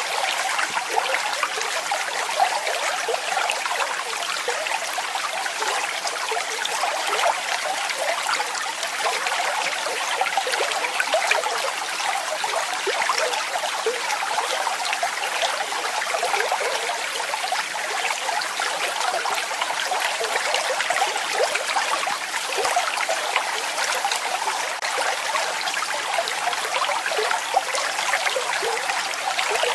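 Falling water splashing steadily, like a small waterfall, with a dense patter of splashes and little deep rumble.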